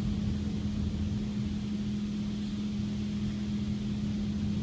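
Automatic car wash running, heard from inside the car's cabin: a steady low mechanical hum with one droning tone.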